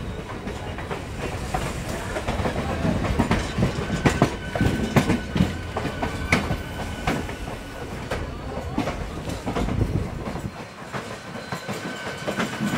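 Train wheels clattering over rail joints and points, an irregular run of knocks over a steady rumble.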